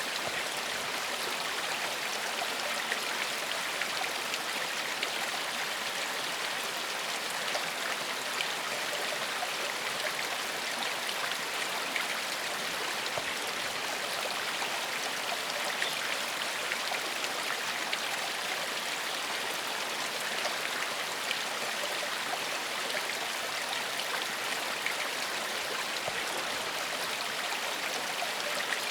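A small forest stream flowing steadily over rocks, a continuous rushing babble with fine splashing detail.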